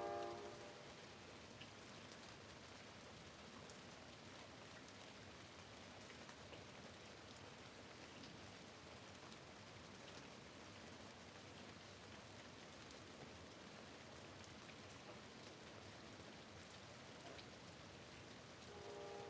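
Light rain falling steadily and faintly, a soft even hiss with scattered faint drop ticks.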